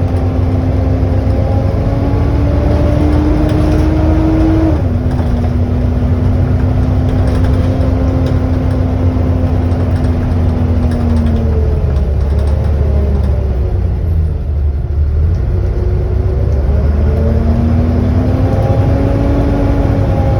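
Volvo B7TL double-decker bus under way, heard on board: a heavy engine rumble with a loud whine, the 'hoover' noise these buses are known for. The whine climbs, drops at a gear change about five seconds in, sinks away as the bus slows around the middle, then climbs again as it pulls away and drops once more at the end.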